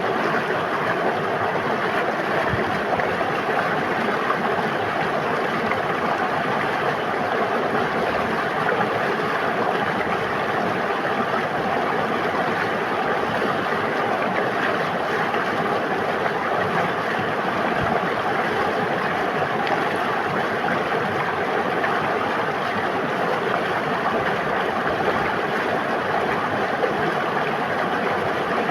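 River water flowing and babbling steadily, an even rushing hiss with no breaks.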